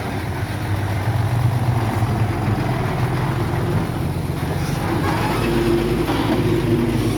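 Heavy diesel engine of earthmoving equipment running steadily, a little louder from about a second in.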